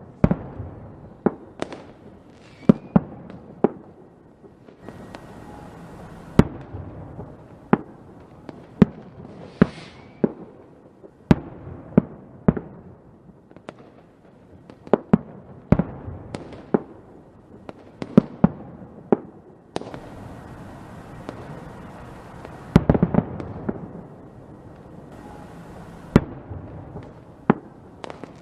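Fireworks going off: a steady irregular series of sharp bangs, some followed by crackling, with a quick cluster of bangs about two-thirds of the way through.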